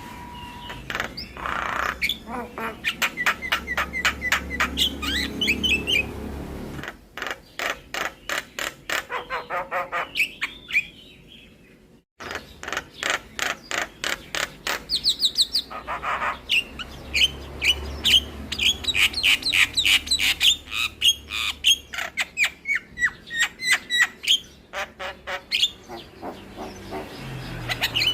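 Javan myna song: fast runs of sharp clicking notes mixed with whistled phrases, breaking off abruptly about twelve seconds in and then resuming.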